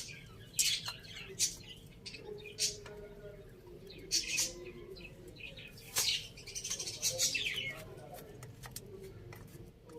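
Chickens feeding: sharp pecking taps at irregular intervals, with a busier flurry of them a little past the middle, over soft low calls.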